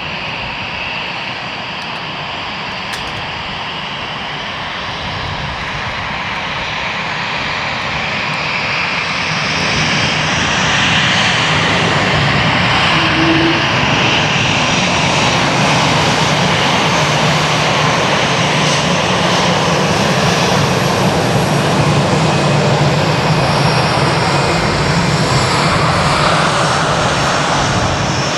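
Jet engines of an Airbus A220-300, Pratt & Whitney PW1500G geared turbofans, growing louder over the first ten seconds or so and then staying loud and steady.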